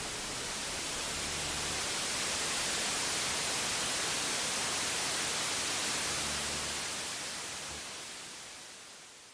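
A steady static-like hiss that swells slightly, then fades away near the end.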